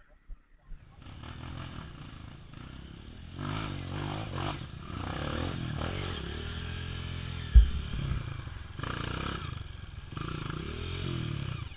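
Dirt bike engine revving up and down, starting about a second in, with a single sharp thump a little past the middle.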